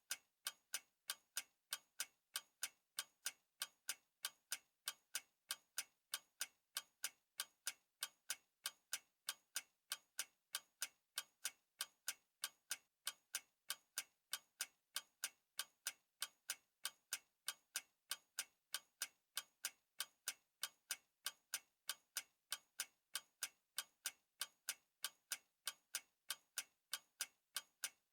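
Clock ticking, with sharp, even ticks at a steady rate of a few per second.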